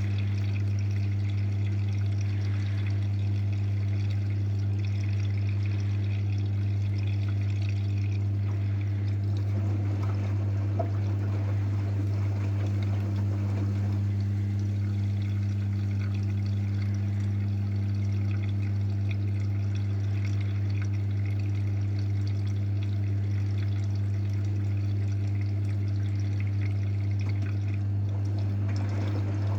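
AEG washing machine running with water moving through it. There is a steady mains-frequency hum of the kind a drain pump makes, over pouring and gurgling water.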